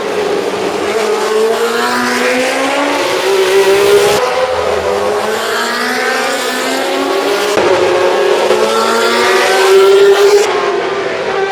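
Historic 1966–72 Formula One racing engines at high revs, their pitch climbing through the gears and falling away as the cars pass. Several short passes follow one another, with the sound changing abruptly about 4, 7.5 and 10.5 seconds in.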